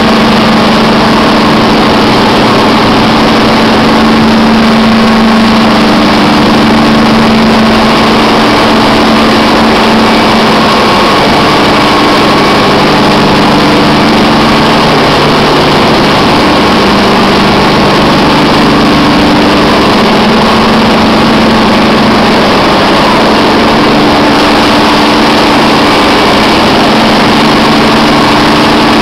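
Schmitt Enertec biogas engine running steadily and loudly with a constant hum. The pitch of its hum shifts slightly lower about halfway through.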